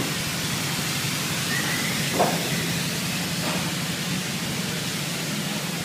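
Car wash running: a steady rushing hiss, with a short knock about two seconds in.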